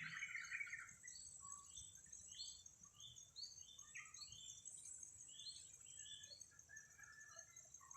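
Sooty-headed bulbul calling: a loud bubbling phrase right at the start, then a run of short, quick chirping notes.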